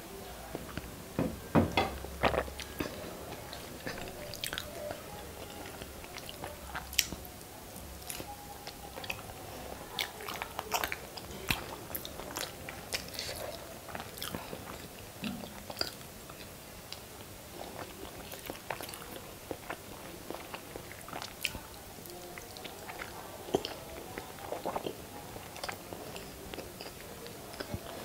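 Close-miked chewing of masala-coated hard-boiled eggs: soft wet mouth smacks and clicks at an irregular pace, with a cluster of louder clicks about two seconds in.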